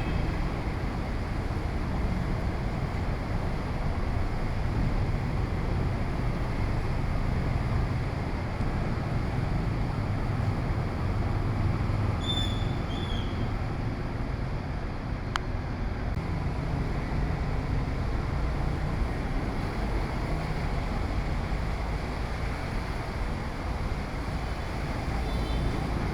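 Steady noise of heavy rain and strong wind with a low rumble of street traffic. A brief high chirp sounds about halfway through, and a single sharp click a few seconds later.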